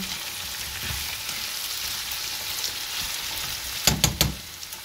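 Chunks of meat and onions sizzling as they fry in oil in a non-stick pan. A metal spoon knocks and scrapes against the pan a few times about four seconds in as the meat is stirred.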